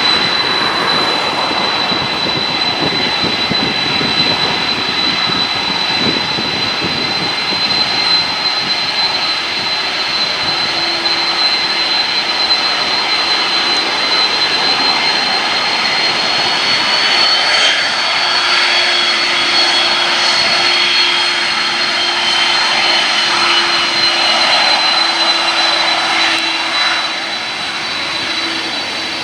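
Boeing 767-300ER jet engines running, a steady loud rush with a high whine that rises slightly and eases back about halfway through. A lower hum joins in partway through.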